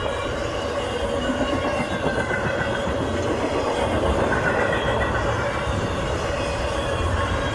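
Train passing, its railcars rolling steadily over the rails.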